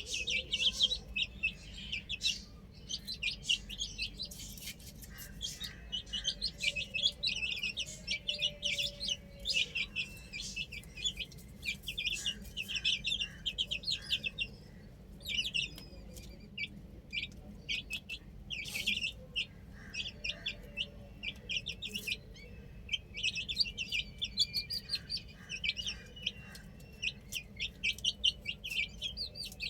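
Chicks peeping: a dense stream of short, high cheeps from several birds, overlapping, with brief lulls.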